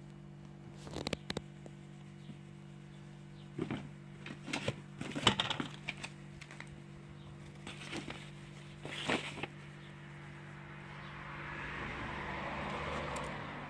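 Scattered clicks and light knocks, like thin metal head gaskets being handled, over a steady low hum; near the end a broad rushing sound swells up and fades.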